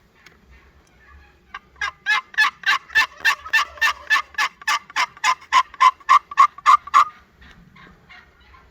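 Turkey yelping: a long, even series of about eighteen loud, sharp notes, about three a second, that starts a second and a half in and stops abruptly near the end.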